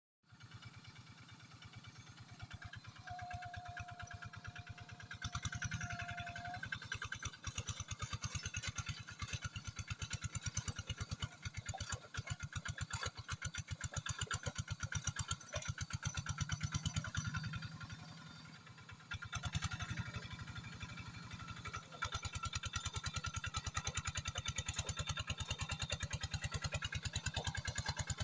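Rice-field tractor engine running with a rapid, even firing beat, louder about five seconds in, easing briefly near the middle and picking up again after about twenty-two seconds. A thin steady high tone sounds for about three seconds near the start.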